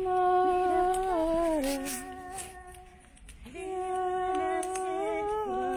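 A person humming a slow tune in long held notes that step down in pitch, breaking off about three seconds in and starting again half a second later.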